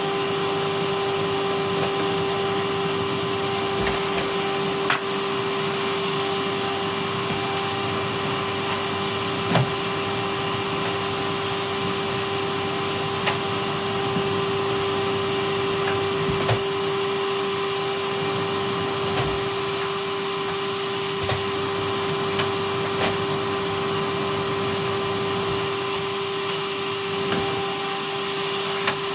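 Vacuum cleaner running steadily with a constant whining hum, the nozzle now and then knocking lightly against surfaces as it is pushed around.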